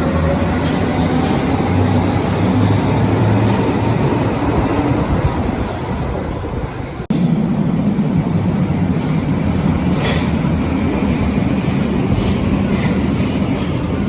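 Berlin U-Bahn large-profile electric train running, its traction motors giving a whine that glides in pitch. About halfway through the sound breaks off abruptly and gives way to a steady low rumble with a few sharp clicks.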